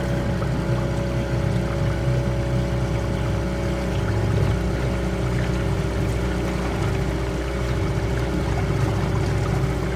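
Outboard motor of a small trailer-sailer yacht running steadily at a constant speed, with an even hum.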